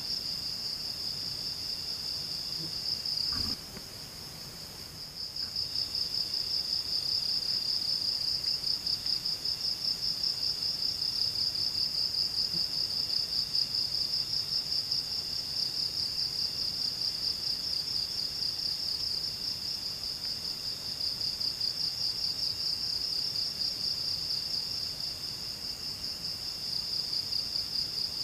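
Insects trilling in the forest: one steady, high-pitched, rapidly pulsing drone that drops away briefly about three and a half seconds in, then comes back. A faint knock sounds just as it drops.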